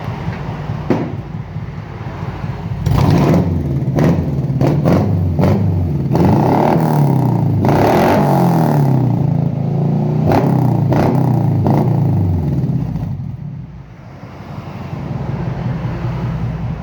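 Fuel-injected car engine through an aftermarket twin-outlet racing exhaust, revved in place. It idles, takes a string of quick throttle blips, then is held at higher revs with the pitch rising and falling, and settles back to idle near the end.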